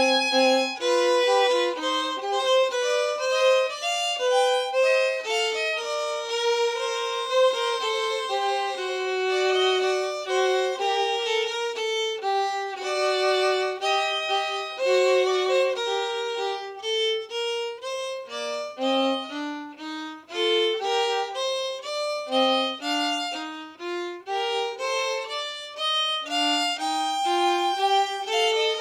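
Two violins playing a duet in two parts: a steady flow of separate bowed notes, often sounding together, with no bass line underneath.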